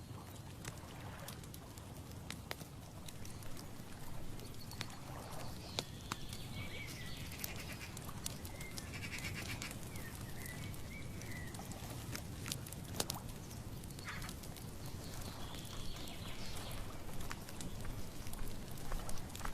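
Outdoor nature ambience: a steady low rumble with scattered clicks and rustles, and high wavering animal calls from about five to twelve seconds in and again around sixteen seconds.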